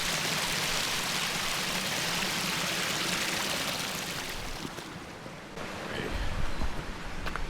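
Porter Brook running over stones: a steady rushing hiss of water that fades away about four and a half seconds in. It gives way to a lower, uneven rumble with a few faint clicks.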